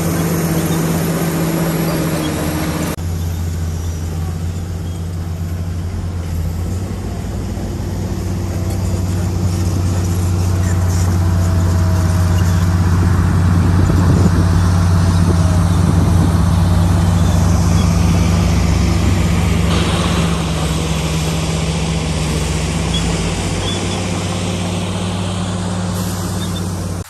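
Bulldozer's diesel engine running steadily with a deep, even hum, changing abruptly about three seconds in and growing louder through the middle.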